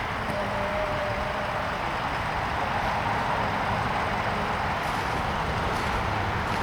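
A heavy diesel engine idling steadily with a low, even rumble.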